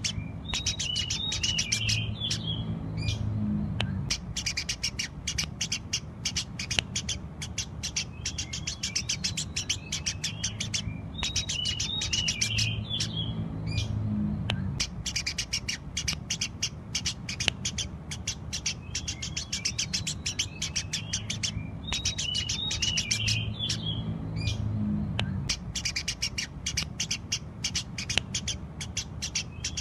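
Eurasian tree sparrows chirping in a fast, continuous run of short chirps, with a burst of twittering about every eleven seconds, over a steady low hum.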